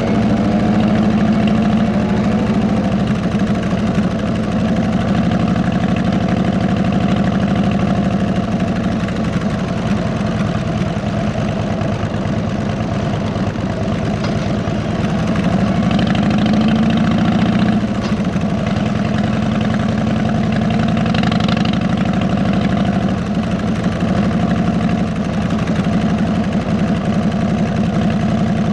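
Harley-Davidson V-twin (Twin Cam 96) with 33-inch fishtail mufflers running steadily at low revs, its firing pulses even throughout. About sixteen seconds in the pitch rises a little, then drops back suddenly near eighteen seconds.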